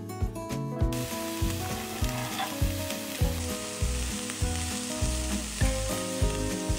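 Food frying in hot oil in a pan, with stirring; the sizzle starts suddenly about a second in and then runs steadily.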